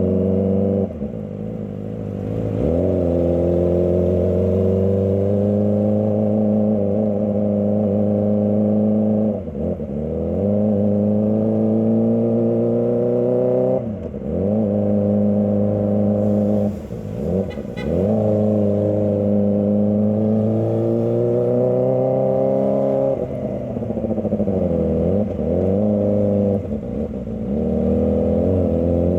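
Kawasaki ZX-25R's 250 cc inline-four engine running under way at a fairly steady pitch. Several times the throttle is rolled off and reopened, giving brief dips in pitch and level.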